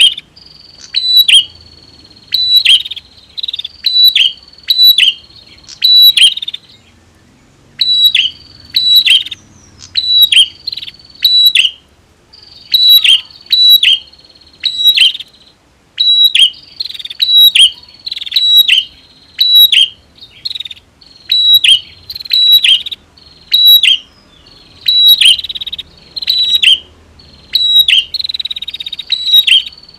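Prinias (prenjak) calling over and over: sharp, high, chipping notes with quick downward sweeps, coming in tight groups of two or three with brief pauses between.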